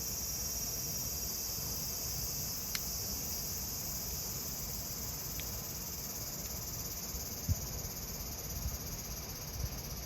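Cicadas singing in a steady high-pitched drone, over a wood fire burning with a low rumble; a couple of sharp pops from the burning wood and a low thump about seven and a half seconds in.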